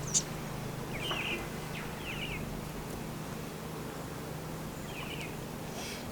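Bird calls: three short chirping phrases, the first two about a second apart and the third a few seconds later, over a faint steady low hum, with a sharp click at the very start.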